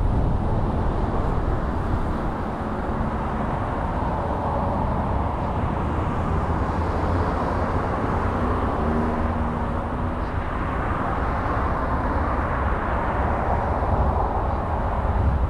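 Car driving along a road: steady tyre and road noise with the engine underneath, swelling and easing a little.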